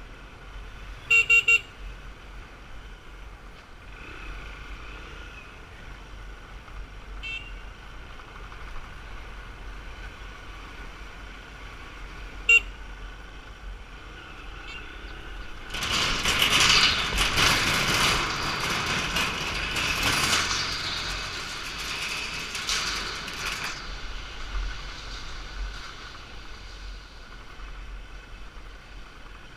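Street traffic with motorbikes, their horns tooting: three quick beeps about a second in and a single beep later on. A louder rush of noise rises for several seconds in the middle, then eases back to the steady traffic hum.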